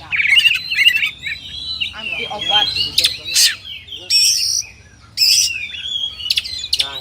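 Oriental magpie-robin (kacer) singing a rapid, varied song of whistled notes, quick sweeps and sharp chirps, with brief pauses between phrases.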